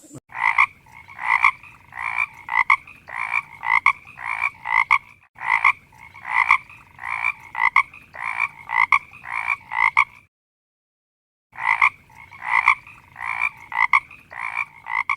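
A frog croaking over and over, about two calls a second, each call a short pitched croak. The calling breaks off for about a second and a half near the two-thirds mark, then resumes.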